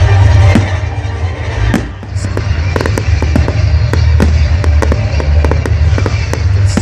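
Fireworks going off: a few bangs, then from about two and a half seconds in a rapid run of sharp cracks, several a second. They sound over loud display music with a heavy bass.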